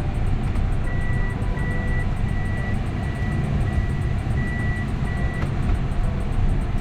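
Low, steady rumble of a camper van's engine and road noise under background music, with a run of seven short, evenly spaced high beeps, about one and a half a second, from about a second in until just past the middle.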